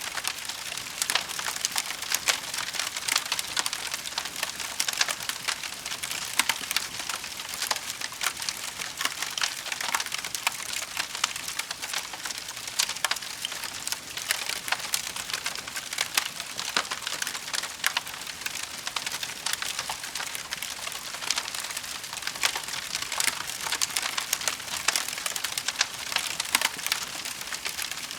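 Wood fire burning, with a dense run of quick crackles and snaps over a steady hiss.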